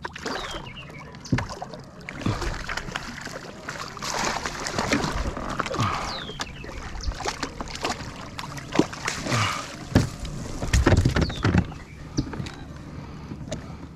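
Water splashing and sloshing around a fishing kayak, with irregular knocks and clatters against the hull.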